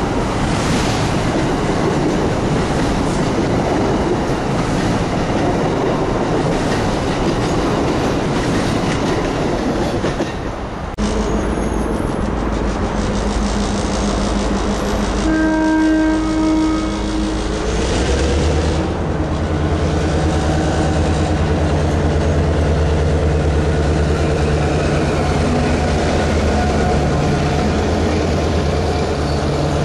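A passenger train rushing past at speed, a dense steady roar of wheels and air. After a cut about a third of the way in, a Metro-North diesel locomotive approaches and sounds its horn once for about two seconds near the middle, then its diesel engine drones steadily as the locomotive rolls past.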